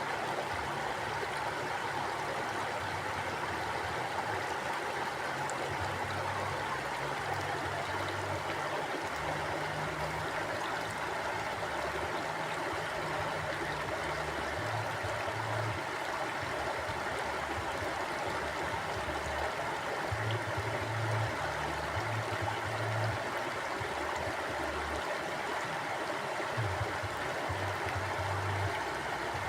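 Forest mountain stream flowing: a steady rush of water, with an uneven low burble swelling and fading underneath.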